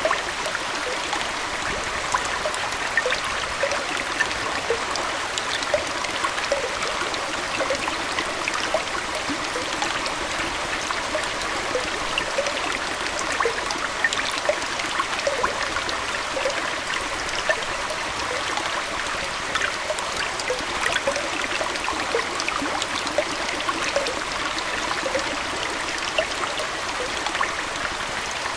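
Aquarium water running and trickling steadily, an even hiss broken by many small splashes and bubbling blips.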